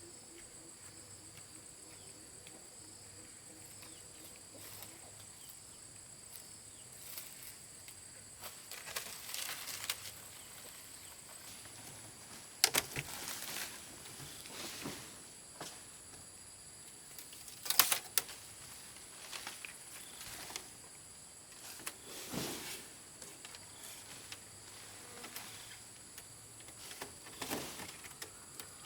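Steady high-pitched insect drone, with a few sharp knocks or taps now and then, the loudest about two-thirds of the way in.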